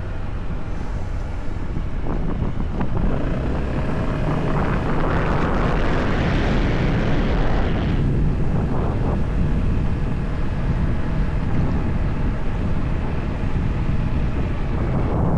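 Motorcycle on the move, the engine's low rumble mixed with heavy wind noise on the microphone. A rushing noise swells about four seconds in and stops abruptly about four seconds later.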